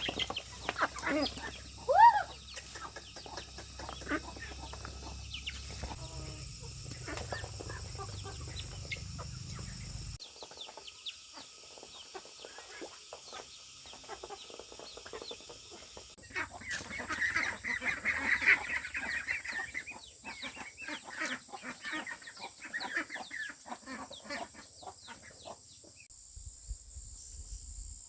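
Chickens clucking, with a few short, louder calls in the first couple of seconds and a busier burst of calls a little past the middle.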